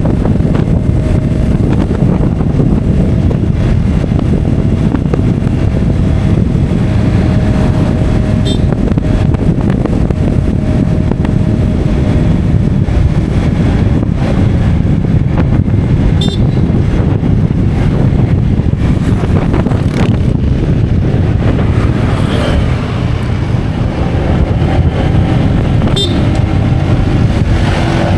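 Road vehicle driving steadily, with its engine and a heavy wind rumble on the microphone.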